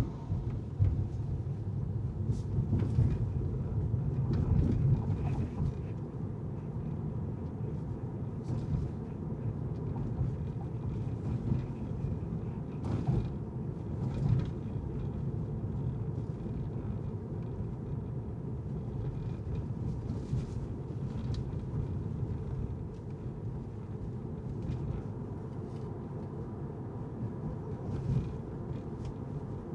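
Car driving on city streets: a steady low rumble of road and engine noise, with a few faint clicks here and there.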